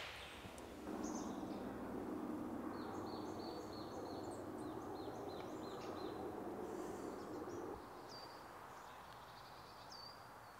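Woodland birds chirping in quick runs, with a few single calls near the end, over a faint steady hiss that drops away about three-quarters of the way through.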